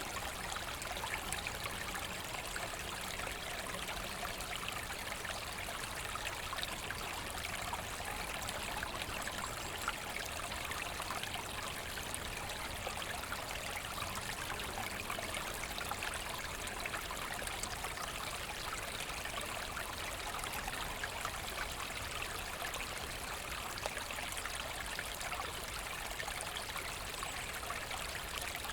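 A small forest brook flowing and trickling over stones, a steady babble with small splashes.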